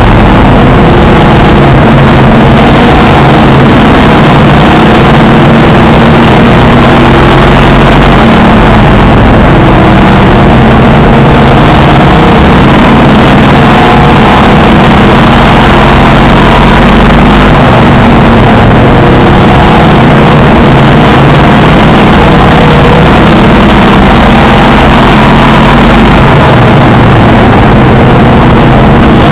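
Race car engine running hard under racing load, heard from inside the car, the pitch rising and falling a little through the corners. The recording is overloaded and distorted throughout.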